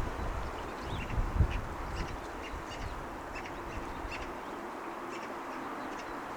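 Birds chirping in short, scattered calls over a steady distant hum of city and sea. A couple of low wind gusts buffet the microphone in the first second and a half.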